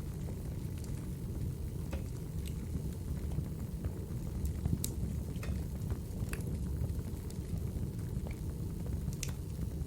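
Logs burning in a fireplace: a steady low rumble of flames with scattered sharp crackles and pops, the loudest about a third and near the end.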